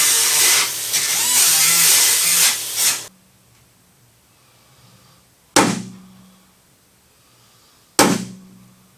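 A power tool runs loudly for about three seconds, wavering in pitch as it works, then cuts off suddenly. Two sharp strikes follow about two and a half seconds apart, each ringing briefly.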